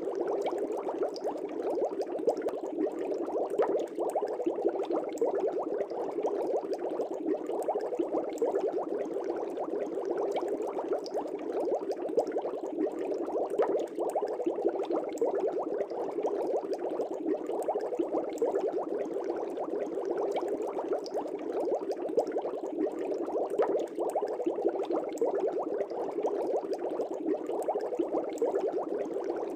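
Aquarium air bubbles rising and burbling steadily in the water of a fish tank, a continuous dense bubbling.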